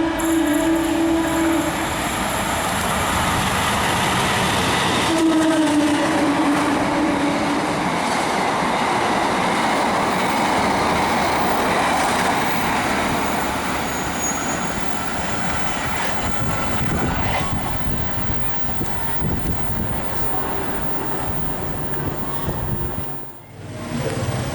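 Train horn sounding twice, one blast ending about two seconds in and another from about five to eight seconds. The steady rumble and clatter of a train passing follows, dropping out briefly near the end.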